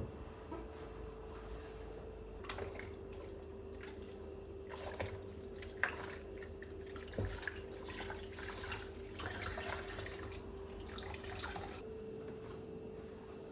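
Water running and dripping at a sink, with small clicks and knocks of things being handled, over a steady low hum.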